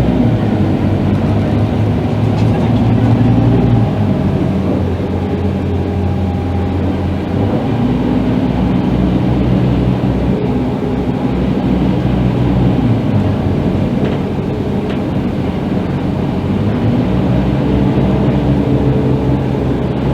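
Scania K310IB bus's diesel engine running under way, its pitch shifting in steps several times as it changes speed or gear.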